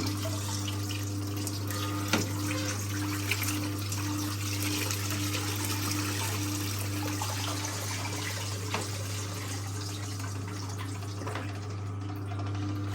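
1958 Hotpoint Empress washing machine running: a steady electric motor hum with a pulsing whirr, over continuous water swishing and dripping, and a couple of light knocks.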